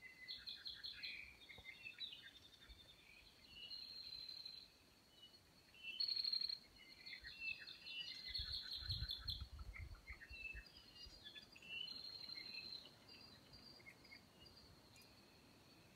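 Several forest birds singing and calling, a mix of short chirps and rapid trills, over a steady high-pitched tone. A brief low rumble comes about nine seconds in.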